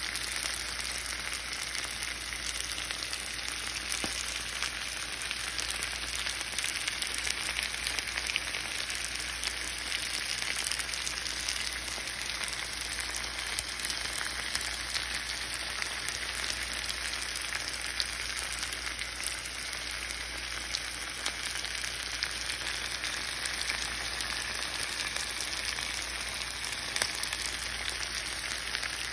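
Chicken pieces cooking in oil and gravy in a skillet on the stove: a steady sizzle with fine crackling.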